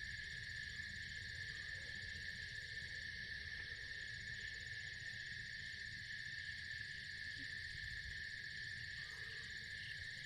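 Night insect chorus of crickets, a steady high trilling that holds at one pitch throughout, with a faint low rumble beneath.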